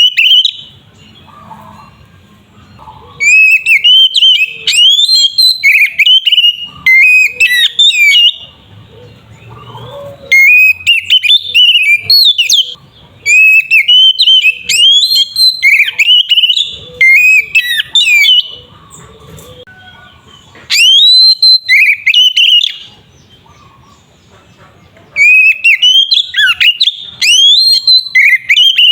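Oriental magpie-robin (kacer) singing loudly in bouts of fast, varied whistled phrases with sliding notes, about six bouts with short pauses between them. It is the energetic full song of a bird in singing form (gacor).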